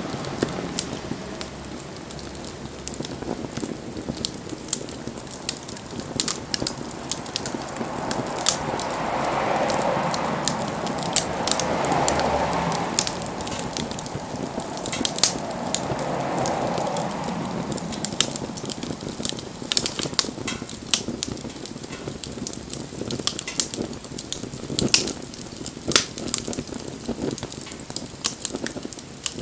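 Wood campfire crackling, with frequent sharp pops and snaps of burning wood. A rushing hiss swells for several seconds in the middle and then fades.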